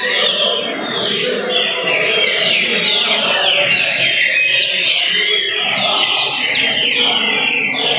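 Songbirds singing: a dense, unbroken run of quick down-slurred whistled notes, over a lower layer of other sound.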